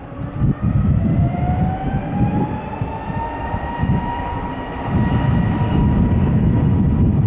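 Airbus A321neo jet engines spooling up: a whine rising in pitch over the first few seconds and then holding steady, over a low rumble that grows louder about five seconds in, as thrust builds for takeoff.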